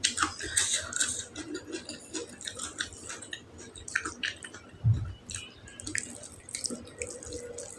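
Close-miked wet chewing and lip-smacking of a mouthful of food, a quick irregular run of moist clicks, with a dull bump about five seconds in.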